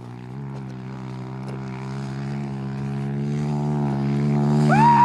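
Pit bike engine held at a steady high pitch, wide open, growing steadily louder as it approaches. Near the end a high tone glides up and holds.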